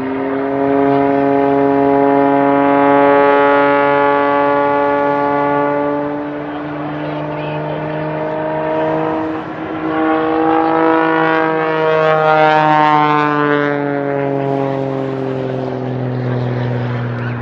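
Propeller-driven aerobatic plane's engine and propeller droning loudly and steadily as it flies its maneuvers. The pitch rises slightly about ten seconds in, then sinks toward the end.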